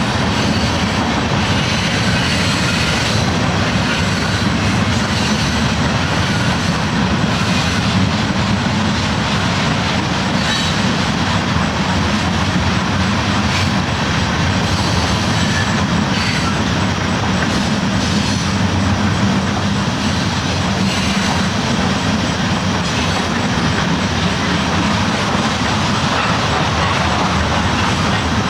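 Train rolling along the tracks, a steady rumble with faint repeated clicks from the rails.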